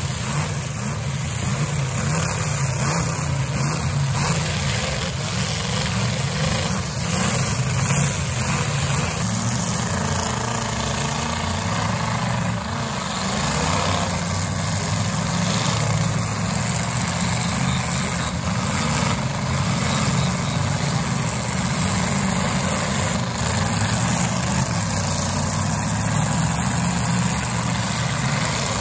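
Several demolition derby cars' engines running together as the cars push and ram each other, a dense steady engine noise with a few brief sharp knocks scattered through.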